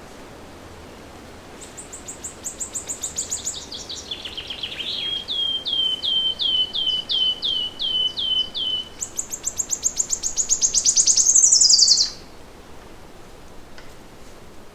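A songbird singing one long, varied song. It opens with a fast trill falling in pitch, then a run of repeated upswept notes about two a second. It ends with a very fast high trill that grows louder and cuts off suddenly.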